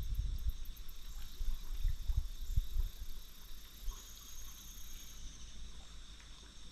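Steady, high-pitched insect chorus. Irregular low rumbles during the first three seconds, then fading.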